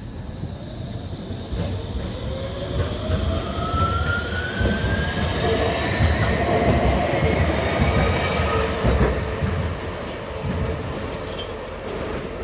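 A rail vehicle pulling away: a low rumble of running gear under a steadily rising motor whine, the sound of it accelerating, getting louder toward the middle and easing off near the end.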